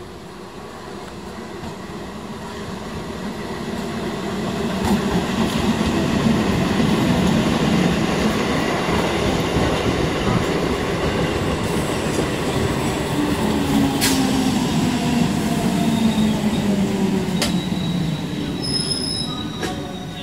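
Electric multiple unit (EMU) suburban train running into a station platform. Its rumble grows louder over the first few seconds, then holds steady as the cars roll past with wheel-on-rail noise and a falling motor whine as it slows. A few sharp clacks come from the wheels, and there is a high brake squeal near the end as it comes almost to a stop.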